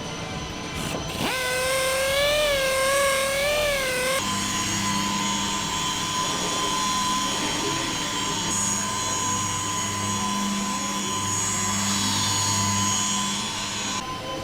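Factory machinery noise: a power tool whines for about three seconds, its pitch wavering up and down. After that comes a steady mechanical hum with a constant tone.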